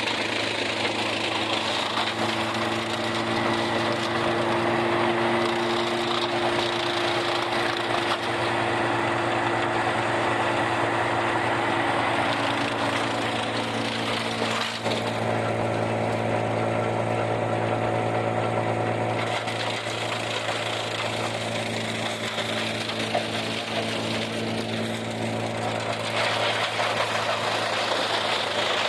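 Farmall 400 tractor engine running steadily under load, belt-driving an old Blizzard silage chopper, with the chopper's mechanical clatter over the engine. The tone shifts about halfway through.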